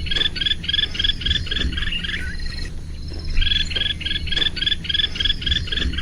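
African grey woodpecker calling: two runs of rapid, identical sharp notes, about five a second, with a short pause between the runs.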